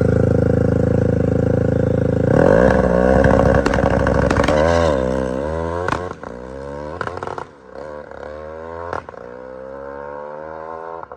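Motorcycle engine held at high revs, then revved up and down repeatedly, with a few sharp pops, before it drops to a lower, steadier running about six seconds in.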